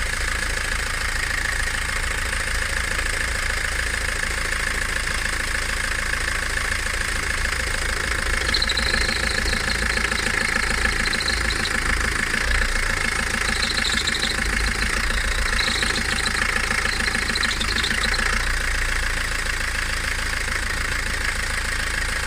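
Peugeot 307 engine running steadily, with short high squeaks coming and going from about eight seconds in. This is the noise the car makes when the clutch is let out to pull away, and it has made it since the owner bought it.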